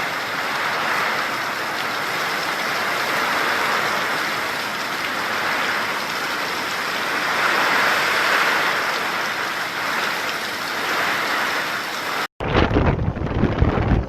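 Heavy storm rain pouring down in a steady hiss. Near the end it cuts off abruptly, and gusty storm wind buffets the microphone.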